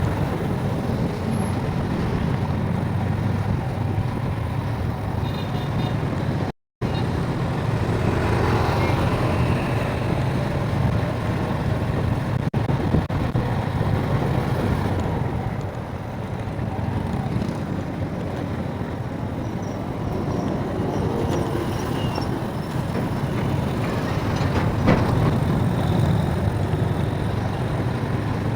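Road and traffic noise while riding along a street: a steady low rumble of engines and tyres that cuts out for a moment about six seconds in.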